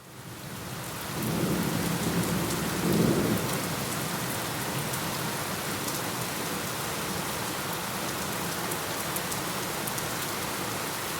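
Steady rain falling, fading in at the start, with a low roll of thunder from about a second in, peaking around three seconds and dying away into the rain.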